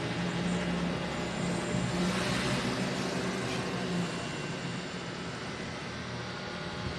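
Five-blade portable ceiling fan running: a steady motor hum under an even rush of moving air, which swells slightly in the middle.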